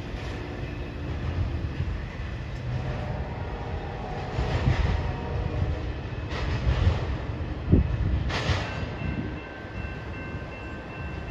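Low rumble of a short intermodal freight train moving away down the line, with a few louder surges in the noise. From about two-thirds of the way in, a faint steady tone sounds, which is the train's horn in the distance.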